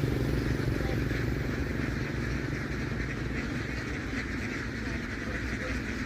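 An engine running steadily with a low rumble, easing slightly quieter over the first couple of seconds, over a flock of ducks quacking.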